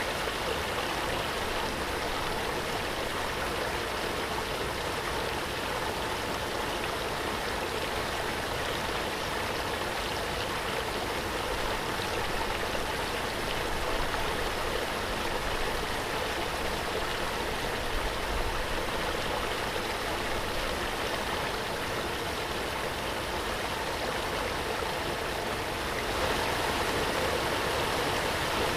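Waterfall: a steady, even rush of falling water with no breaks, a little louder near the end.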